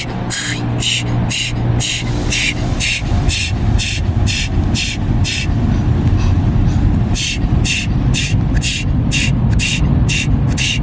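Automatic car wash machinery heard from inside the car: a steady low rumble with a fast, regular hissing stroke about two to three times a second, which pauses for about a second midway and then resumes.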